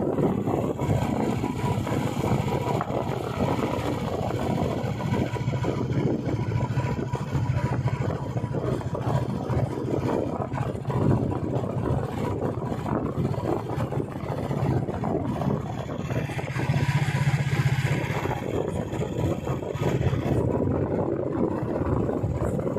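Royal Enfield motorcycle engine running steadily on the move, with road and wind noise. The sound swells briefly about seventeen seconds in.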